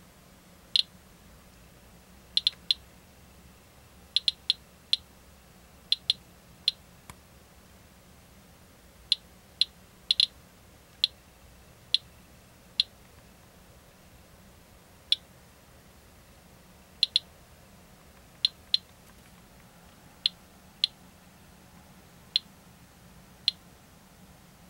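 Radiation Alert Inspector Geiger counter clicking at random intervals, roughly seventy clicks a minute, sometimes two or three in quick succession. Each click is one detected count as the counter measures matcha green tea powder for radioactivity, its display reading about 72 counts per minute.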